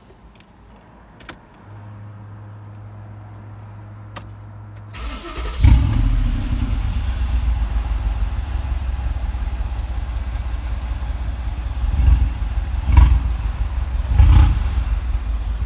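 Mercedes G63's twin-turbo V8 starting after a few seconds of low hum, catching about five seconds in with a loud flare, then idling. Three short revs come near the end.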